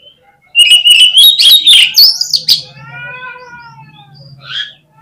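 Oriental magpie-robin (kacer) in full song: about two seconds of loud, rapid notes and rising whistles, then a softer drawn-out call with an arching pitch.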